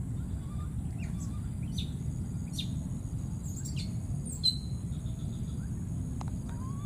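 Small birds calling in short, sharp, falling chirps, a few scattered through a few seconds, with one loud chirp about halfway through. Under the calls runs a steady low rumble and a faint high steady hiss.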